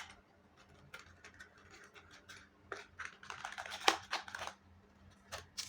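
Faint clicks and paper rustling from hands opening a small paper prize box, busiest from about three to four and a half seconds in.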